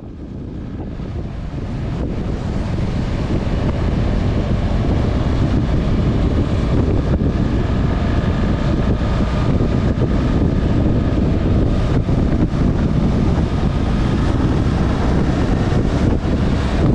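Heavy wind noise buffeting the microphone of a moving motorcycle, with the engine running underneath. The sound fades in over the first few seconds, then holds steady.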